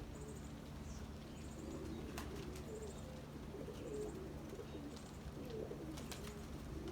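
Domestic pigeons cooing in a low, wavering way, with faint high chirps of small birds now and then.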